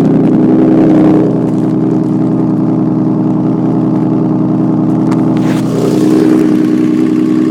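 Honda CBX six-cylinder motorcycle engine running at a fast idle, with a slight blip of the throttle about a second in and a gentle rise in revs near the end.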